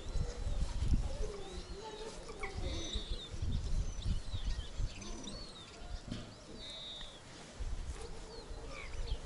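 Small birds chirping and twittering in short, high calls over an uneven low rumble.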